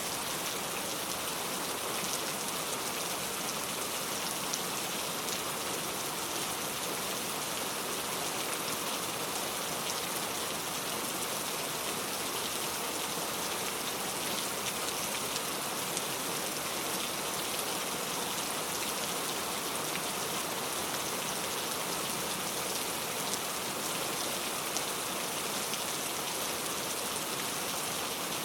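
Steady rain falling: an even hiss with scattered ticks of individual drops, unchanging throughout.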